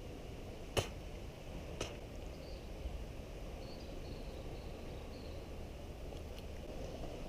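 Steady seaside background of wind and surf, with two sharp clicks about a second apart near the start and a few faint high chirps in the middle.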